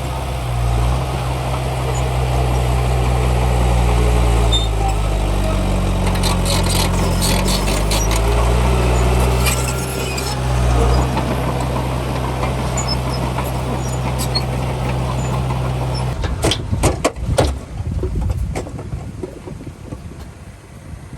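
Diesel engine of heavy earthmoving machinery running steadily, its pitch rising and falling as it works, with occasional metallic clanks. About three quarters of the way through the engine sound stops abruptly, and a few seconds of irregular knocks and clatter follow.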